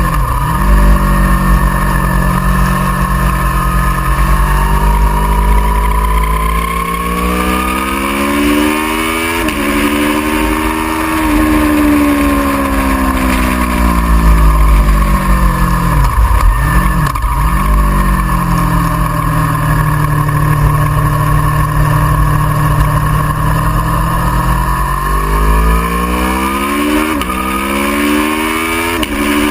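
Aprilia Tuono V4R's V4 engine at speed on track, its pitch climbing through the gears and falling away under braking, with several sudden drops where gears are changed. There is a steady rush of wind on the microphone.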